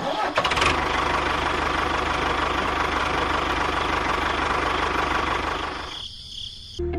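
Small motor of a miniature model tractor running steadily with a rapid rattling pulse, fading out about six seconds in.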